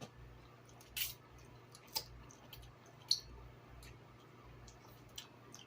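Close-miked eating: a bite of cheesy grilled cheese sandwich being chewed, with a few soft wet mouth clicks and smacks over a faint steady low hum.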